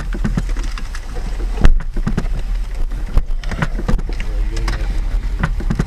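Steady low rumble of a car on the road, with scattered knocks and one loud bang a little under two seconds in.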